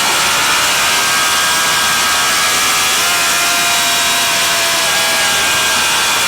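Racing motorcycle engine running hard at high revs. Its pitch shifts slowly up and down under a steady rushing noise.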